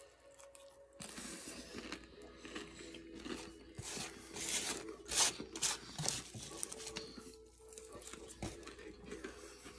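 Close-up crunching and chewing of a crisp cheese-dusted taco shell, a dense run of crackles, loudest about five seconds in, that thins out later.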